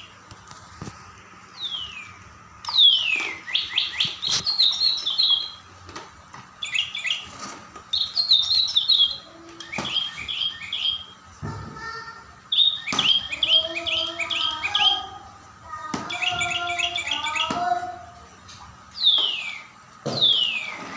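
A small songbird singing in bursts of rapid, repeated chirps and quick falling whistles, each phrase lasting a second or two with short pauses between.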